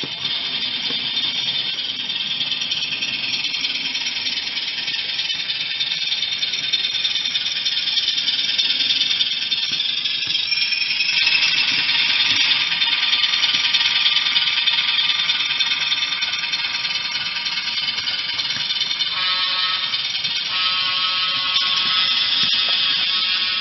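HO scale ALCO RS3 diesel model running past, its sound decoder playing diesel engine sound through a small tinny speaker, with the wheels rattling on the track. The sound swells slightly in the middle. Near the end a horn-like chord sounds in several blasts.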